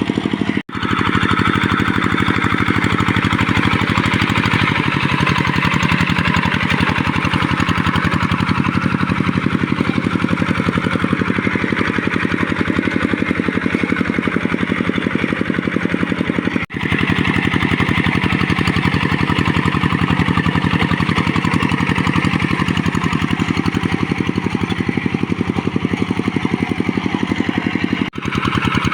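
Tractor engine running steadily with a rapid, even firing beat, broken by three very short gaps.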